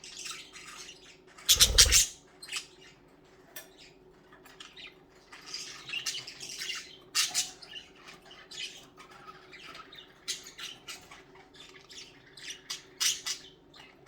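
Pet budgies chirping and squawking in short scattered calls, with one loud bump about a second and a half in.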